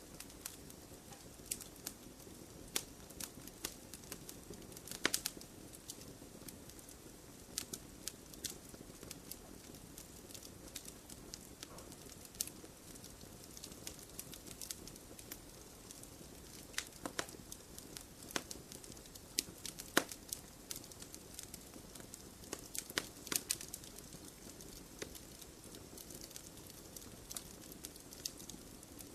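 Campfire wood burning with a soft steady hiss and irregular sharp crackles and pops, a few louder snaps clustered here and there.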